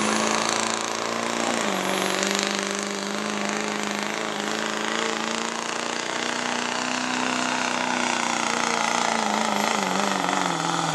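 Diesel pickup truck engine held at high revs under full load while pulling the sled, with a high whine riding over it. The engine note dips about two seconds in and sags toward the end as the pull slows.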